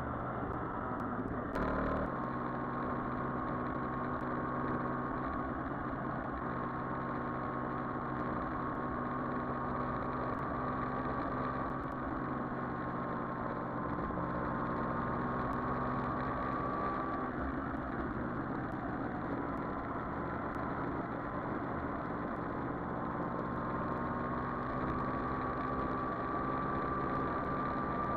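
Yamaha Virago XV400 V-twin motorcycle engine running at a steady, even speed, with a faint whine that drifts a little in pitch. There is a short knock about two seconds in.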